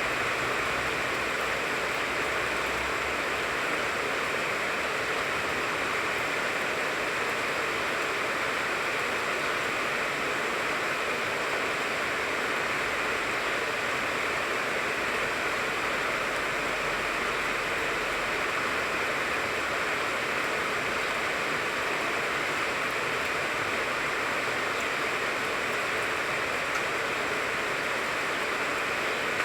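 Steady rain falling on a tangerine tree, an even hiss that neither builds nor lets up.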